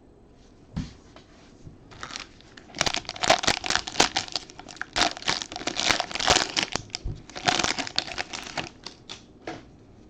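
Plastic wrapping on a pack of trading cards being crinkled and torn open, with a dense run of crackling for about six seconds after a single knock.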